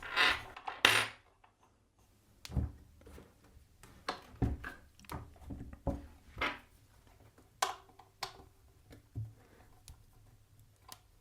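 Irregular metallic clicks and knocks of a hex key and the head clamp of a Parkside bench pillar drill as its head is loosened and worked on the column.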